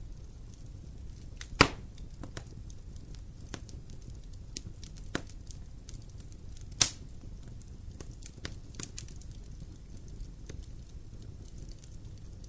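Wood fire crackling in a fireplace: frequent small snaps over a low rumble of the flames, with two loud pops of the burning wood, one about a second and a half in and another near the middle.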